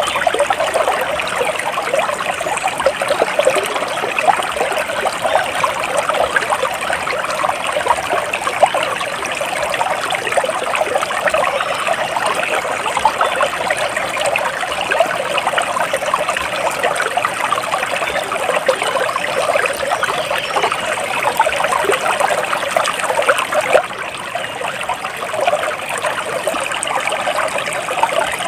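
Water from a small stream trickling steadily, dipping a little quieter for a moment about three-quarters of the way through.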